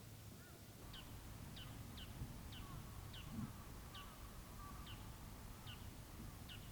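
A bird calling repeatedly, a thin short note sliding downward about one and a half times a second, starting about a second in, over a faint low rumble.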